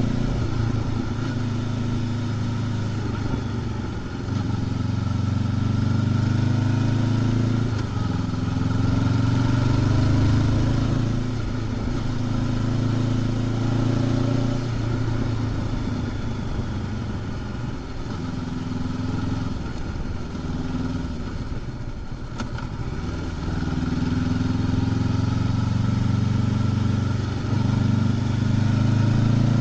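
Honda CB500X's parallel-twin engine, stock exhaust, heard from the rider's seat, pulling up through the revs and easing off several times in turn, over a steady hiss. A short click sounds about three quarters of the way through.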